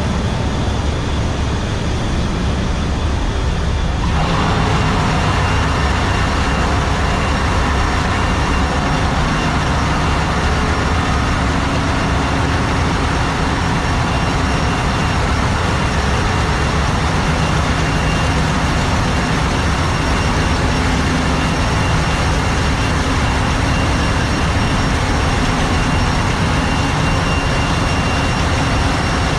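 Ship's engine-room machinery running: a loud, steady drone of engines and auxiliaries with a deep rumble, a broad hiss and a faint high whine. About four seconds in it turns hissier and brighter, as if closer to the machinery.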